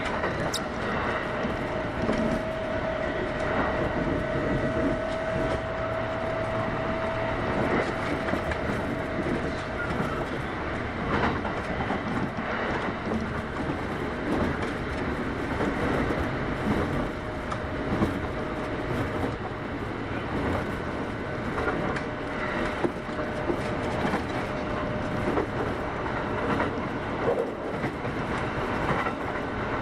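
Kintetsu 8810 series electric train running, heard from inside the car: a steady rumble of wheels on rail with a steady whine that fades about ten seconds in.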